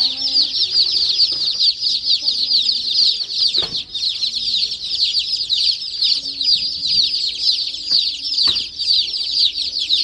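A crowd of baby chicks peeping continuously: many short, high, downward-sliding chirps overlapping without a break. Two brief knocks sound in the middle.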